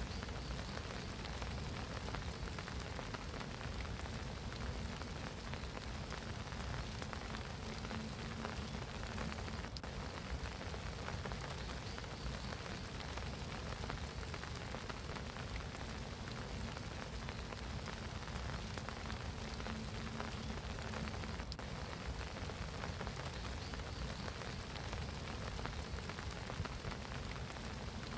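Steady spring rain falling on a pond's water surface, an even, unbroken hiss of drops.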